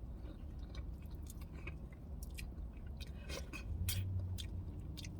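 Close-miked chewing of a mouthful of crispy fried chicken sandwich, with many small wet clicks and smacks.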